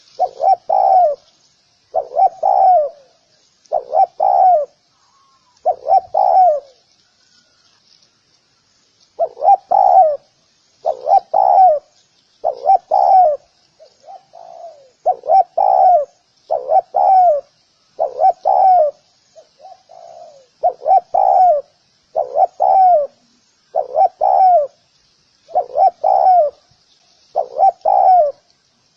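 Spotted dove cooing: short, repeated phrases, one about every two seconds, with a pause of a couple of seconds about a quarter of the way through.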